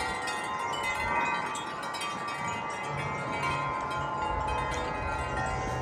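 Several tuned metal wind chimes ringing together, blown by gusty wind, their many overlapping tones ringing on as the clappers keep striking.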